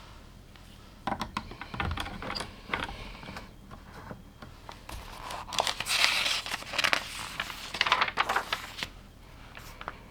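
Small LEGO plastic pieces being handled: scattered clicks and taps for the first few seconds, then a busier stretch of rattling and rustling from about five and a half seconds to nine seconds, as of rummaging through loose pieces.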